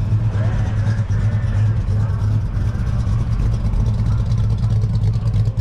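A car engine idling steadily and loudly at close range, its speed not changing, with voices faint behind it.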